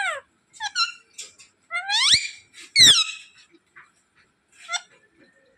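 Pet parrot making a series of short, high-pitched squeaky calls that mostly rise in pitch, the two loudest about two and three seconds in.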